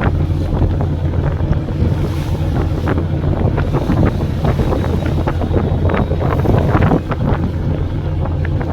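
A fishing boat at sea: a steady low engine drone, with wind buffeting the microphone and water splashing.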